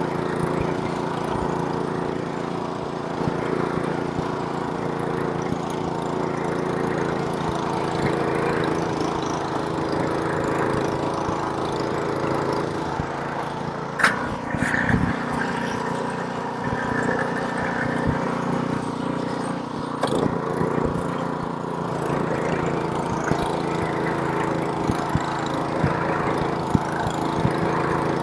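Gas snowblower's small engine running steadily while clearing snow. About halfway through there is a sharp clack, and after it the engine note sits a little lower.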